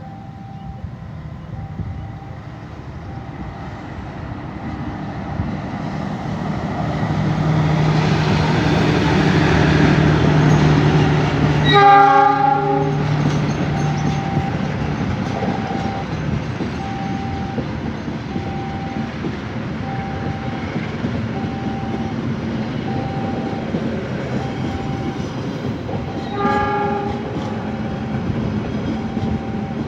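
CC206 diesel-electric locomotive hauling a passenger train passes, growing steadily louder over about ten seconds as its engine drone builds. It sounds a short horn blast about twelve seconds in and another short blast near the end. A warning bell, typical of a level crossing, rings about once a second throughout.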